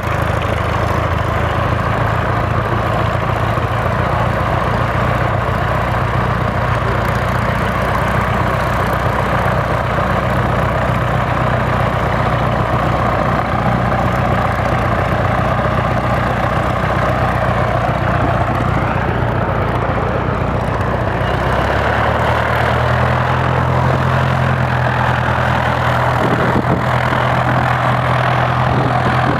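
De Havilland DHC-1 Chipmunk's piston engine and propeller running steadily at low power just after start-up. The engine note changes about 22 seconds in, as the engine speed shifts.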